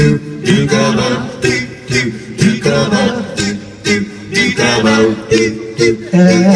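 Live band playing the opening of a song: guitar with a steady beat of about two strikes a second and a male voice singing.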